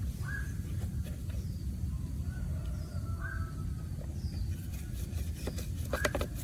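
A few short bird chirps over a steady low rumble, with a quick run of clicks near the end.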